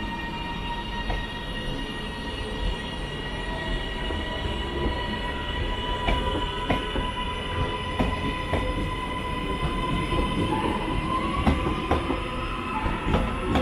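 Passenger train moving through the station with a steady high-pitched squeal in several tones over a low rumble. There are a few sharp clicks of wheels over rail joints in the middle, and a tone that rises in pitch near the end.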